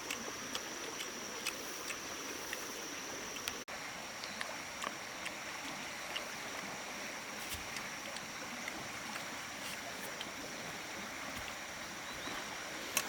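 Steady outdoor background hiss with a thin, high, steady tone that stops abruptly about three and a half seconds in, and scattered small clicks throughout.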